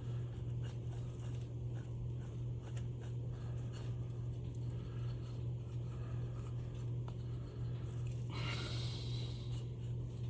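Faint scraping and small clicks of a screwdriver tightening a screw in a tape-recorder spooling-motor assembly, over a steady low hum. A short rushing noise comes near the end.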